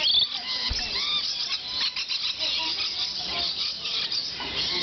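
Lorikeets chattering, with many short, high, shrill chirps and screeches overlapping.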